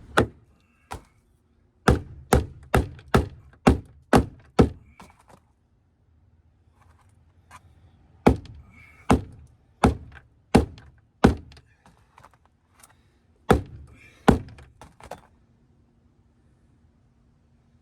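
Hard one-handed blows struck at the jammed, crushed door of a Dodge Dakota pickup to knock it loose. They come in three runs: about seven quick strikes at roughly two a second, a pause, five slower strikes, then two more.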